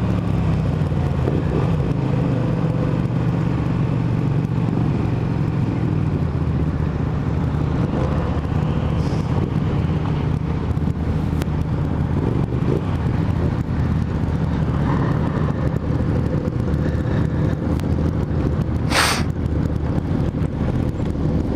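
Motorcycle engine running steadily on the move, with wind rush on the microphone. Near the end a brief sharp high-pitched burst cuts through once.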